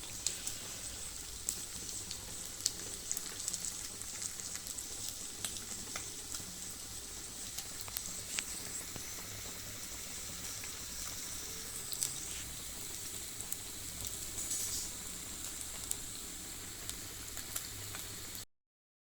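Marinated chicken breast fillets frying in butter in a pan: a steady sizzle with frequent sharp crackles and pops, cutting off abruptly near the end.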